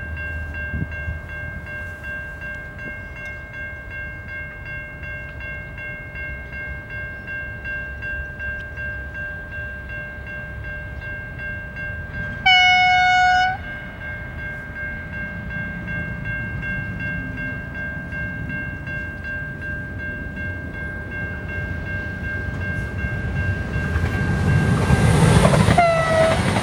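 A V/Line train sounds one loud horn blast of about a second, with a steady high whine underneath. Near the end the train's rumble builds as it approaches and passes, and a short second horn blast sounds.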